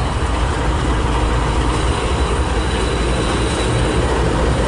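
Train passing at close range: a steady rumble and rattle of wheels and cars rolling over the rails.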